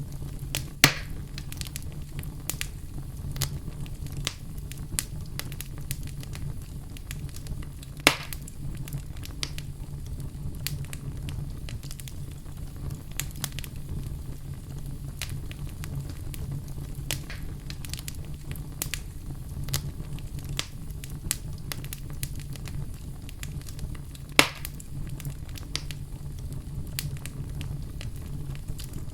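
Wood fire burning in a fireplace: a steady low rumble of flames under frequent small crackles, with three louder pops, about a second in, around eight seconds in and near twenty-four seconds in.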